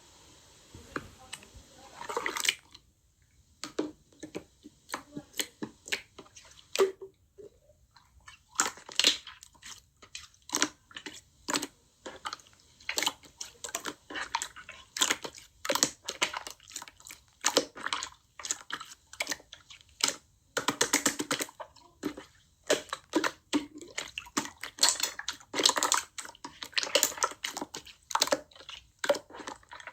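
Slime being squished and pressed by hand, making irregular sticky clicks and crackling pops.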